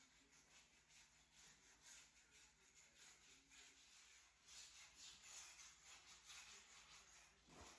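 Near silence: a faint hiss with soft, irregular rustling.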